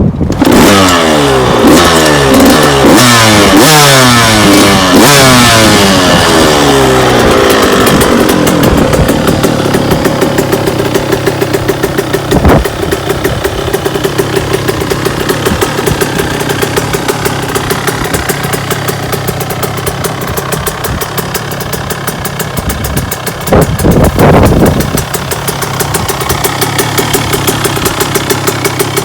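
A KTM 85 two-stroke dirt-bike engine with an FMF Shorty silencer is revved up and down repeatedly for the first several seconds, then settles to a steady idle. There is a quick throttle blip about halfway through and a couple of short revs near the end.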